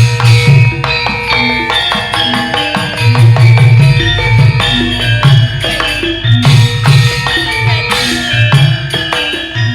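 Javanese gamelan accompaniment playing an instrumental passage, with pitched struck notes over a steady, repeating kendang drum beat.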